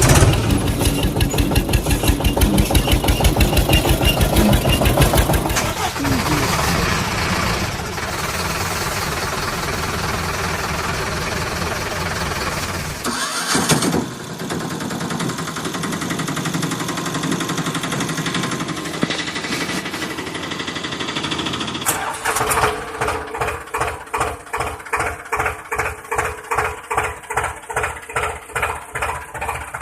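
Vehicle engine sounds in several stretches: fast, dense chugging for the first six seconds, steadier running through the middle, and from about 22 seconds a slow, even chug at roughly two beats a second.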